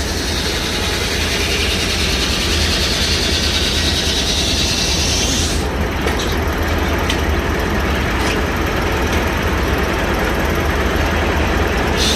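Sawmill blade sawing through a log over the steady drone of the mill's power unit, throwing off chips. About six seconds in, the high cutting noise drops away, leaving the low running drone, and the cutting noise comes back near the end.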